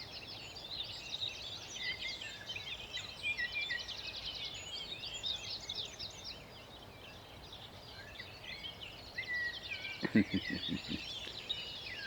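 Several songbirds singing at once in a busy dawn chorus of overlapping chirps and trills. About ten seconds in comes a brief low sound of a few quick pulses.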